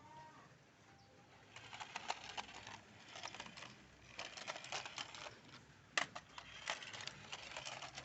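Light plastic clicking and rattling in several short bursts, from a toy car being handled.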